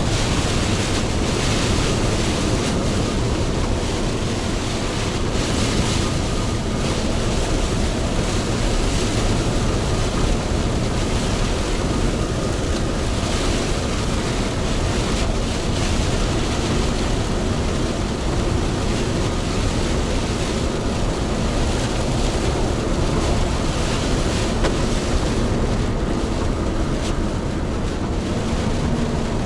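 Steady rush of tyres and rain spray on a wet expressway, with the low rumble of a Hino Profia heavy truck driving in heavy rain.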